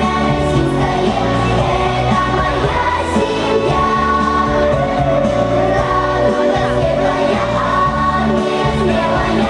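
Pop song with singing over a steady band accompaniment.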